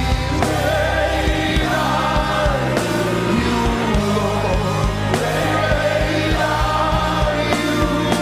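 Live gospel worship music: a band with a steady drum beat and sustained keyboard chords, with singers and a choir singing.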